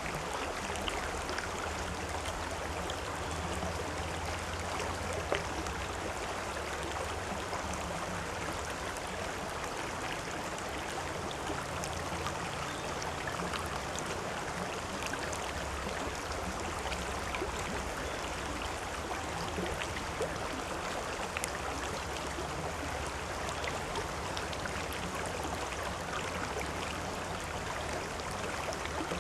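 A river flowing steadily, a continuous rush of running water with small splashes.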